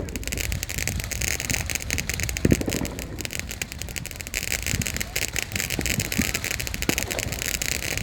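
Fireworks crackling: a dense, rapid stream of sharp pops, with a couple of deeper thumps mixed in.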